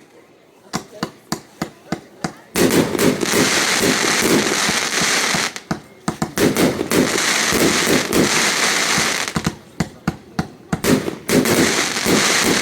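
Fireworks going off: a quick string of separate sharp bangs, then dense continuous crackling that comes in three long waves with single cracks between them.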